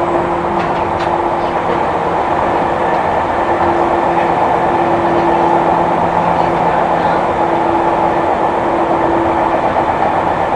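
Running noise inside a Seibu New 2000 series electric commuter train car under way: a steady rumble of wheels on rail with a humming tone that fades out and back in.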